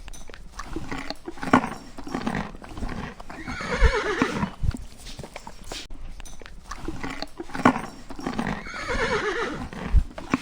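Horse whinnying about three times, each call a wavering neigh that falls in pitch. Sharp knocks sound between the calls.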